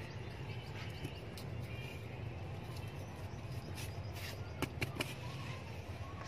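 A steady low background rumble, with a few faint short clicks and rustles from hands handling the soil and leaves of a freshly transplanted eggplant seedling.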